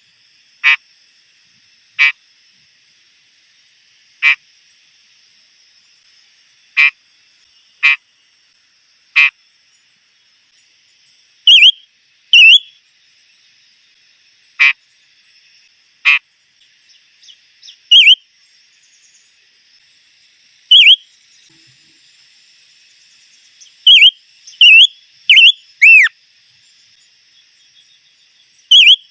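A bird calling. For the first ten seconds it gives sharp, very short chirps about every one to two seconds. From about eleven seconds on it changes to clear whistled notes that slide downward in pitch, several in quick succession near the end, over a faint steady high-pitched hum.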